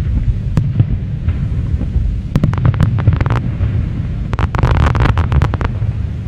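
Fireworks display: a steady low rumble of shell bursts, with two clusters of sharp crackling pops, about two seconds in and again around four and a half seconds in.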